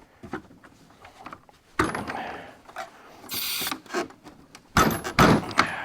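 Metal parts of a truck seat-base slide track clunking and scraping as they are worked and fitted together. There are light clicks, a knock about two seconds in, a short hiss midway, and a heavier clunk near the end.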